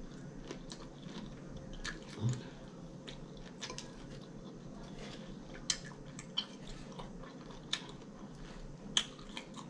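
Close-miked chewing of a mouthful of lettuce salad, with scattered sharp clicks and crunches over a faint steady hum.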